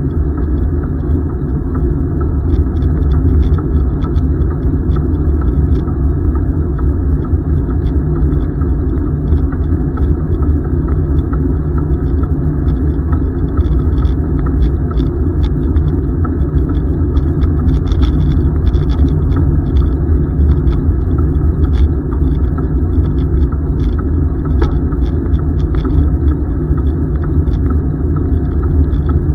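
Steady low rumble of wind buffeting the microphone on a moving bicycle, with a few faint ticks.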